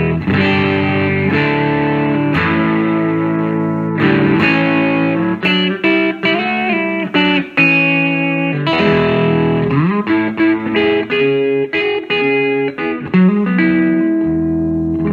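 Electric guitar with a Fat Bottom humbucker, bridge and neck pickups together, played with light overdrive from a Zvex Box of Rock pedal into a Fender Vibrolux Reverb amp. Chords ring out first, then a run of single-note licks with a string bend and an upward slide.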